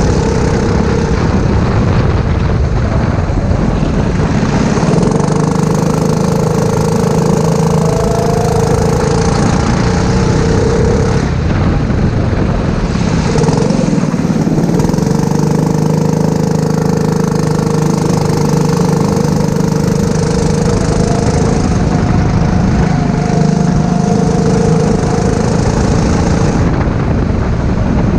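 Four-stroke kart engine heard up close while lapping. It runs steadily near full revs for stretches, and the pitch drops and climbs again several times as the kart slows for corners and accelerates out.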